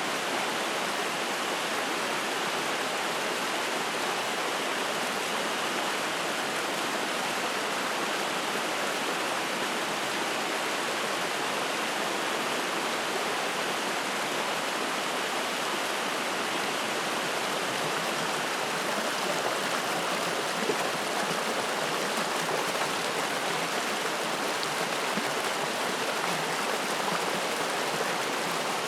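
Spring-fed mountain stream rushing and splashing over rocks: a steady, even water noise.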